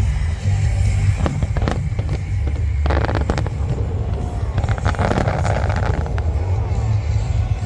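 Fireworks bursting one after another in sharp bangs, with dense crackling shells about three seconds in and again around five seconds in, over a constant low rumble.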